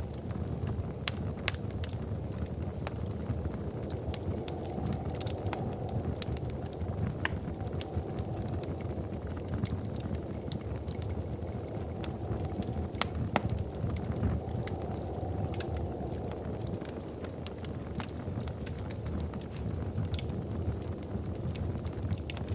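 Wood fire in a fireplace crackling: a steady low rumble of flames with irregular sharp pops and snaps.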